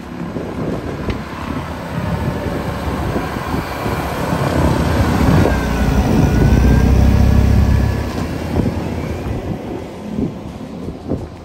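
Blizzard wind buffeting the microphone in strong gusts, with a deep rumble that swells hardest about five to eight seconds in.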